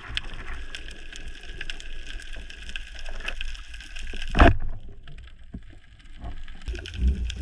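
Underwater ambience on a dive: a dense crackle of small clicks over a steady hiss. About four and a half seconds in comes one loud thump, after which the crackle drops away; a low rumble rises near the end.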